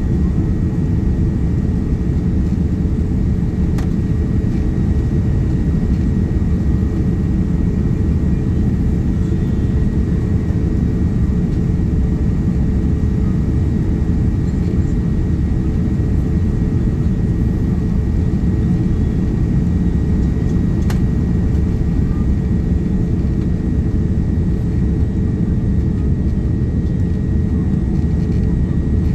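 Steady cabin noise inside a Boeing 787-9 airliner on its descent toward landing: a constant deep rumble of airflow and engines, with a faint steady hum and a thin high whine on top. Two faint clicks sound, one early and one past the middle.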